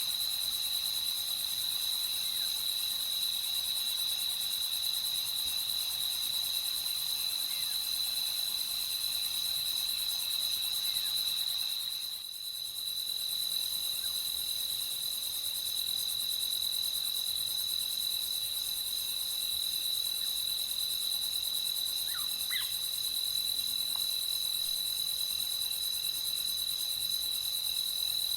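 Crickets chirring in one steady, high, unbroken trill, which dips briefly about twelve seconds in.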